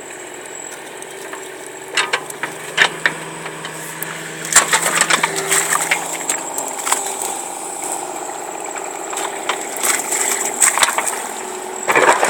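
A machine engine running steadily, crossed by scattered sharp knocks and cracks as the buried tile pipe is worked loose.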